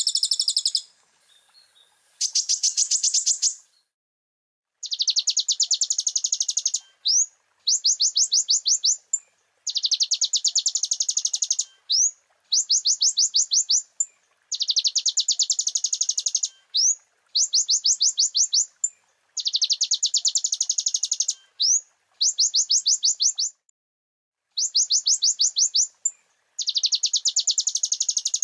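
Kolibri ninja (a sunbird) singing: a run of fast, high, buzzy trills of about ten notes a second, each lasting a second or two, separated by short rising whistled notes and brief pauses.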